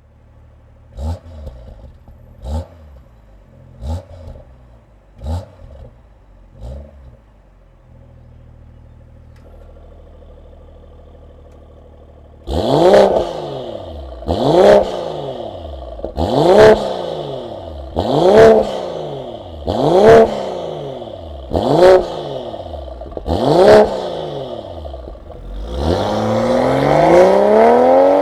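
BMW M340i's B58 turbocharged inline-six with a Stone catted downpipe and valved catback exhaust, blipped five times with the exhaust valves closed, then idling. About twelve seconds in the valves open and it gets much louder, with seven sharp free revs about two seconds apart, followed near the end by a long, rising pull under acceleration.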